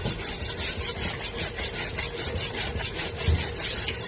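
Metal blade being drawn back and forth across a sharpening stone in quick, even strokes, about four a second, with a gritty scraping rasp.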